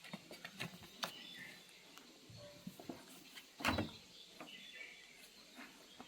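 Faint scattered taps, scratches and knocks of cats playing, with one louder thump about three and a half seconds in. A few faint high chirps come and go.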